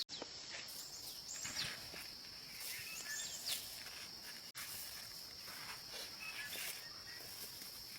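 Outdoor ambience of a steady high-pitched insect drone, with a few short, high, falling chirps in the first half and occasional soft rustles.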